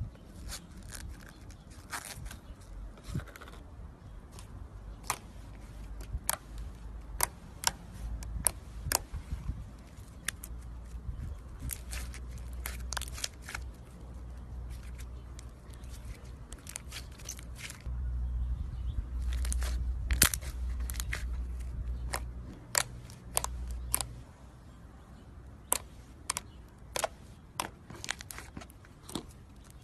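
Slime being squeezed and worked by hand, giving irregular sharp clicks and crackling pops, with a low rumble for several seconds past the middle.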